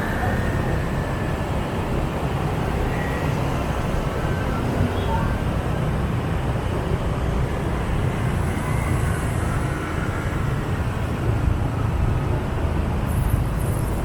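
Riding a motor scooter through dense city motorbike traffic: a steady engine and road rumble with wind buffeting the microphone, and the surrounding traffic mixed in.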